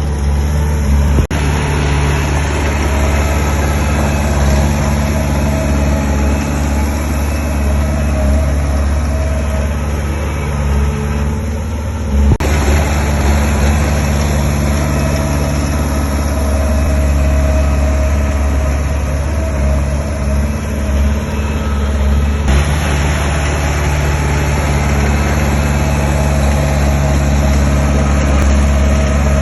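Heavy diesel engine of construction machinery running steadily with a low drone. The sound shifts abruptly about a second in, about twelve seconds in and about twenty-two seconds in.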